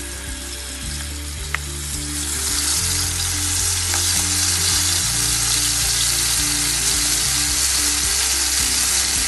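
Garlic paste frying in hot oil in a pan, a steady sizzle that swells louder about two seconds in, with a single tick of a utensil on the pan early on. Faint background music plays underneath.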